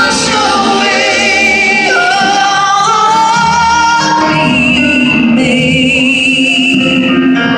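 Loud live country music from a full band, with long held melody notes that waver in pitch.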